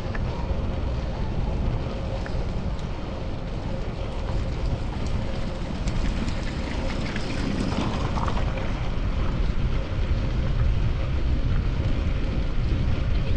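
Wind rushing over a chest-mounted GoPro Hero 10's microphone while cycling, a steady low noise with a faint steady hum and a few faint clicks.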